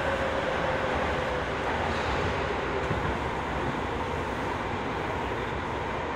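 Running noise heard inside a Tobu 20070-series commuter train car: a steady rumble of wheels on rail, with a faint whine that fades about a second and a half in.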